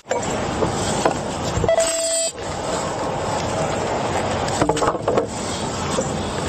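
Steady roadside traffic noise. A short steady tone sounds about two seconds in, and another brief tone near five seconds.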